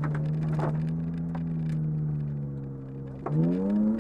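Car engine heard from inside the cabin at speed on a gravel road, holding steady revs that sag slowly, then revving up sharply about three seconds in as it accelerates. Scattered short clicks run throughout.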